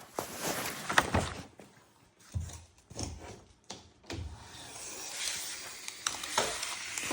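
Tape measure and furniture being handled: irregular rubbing and scraping with a sharp click about a second in.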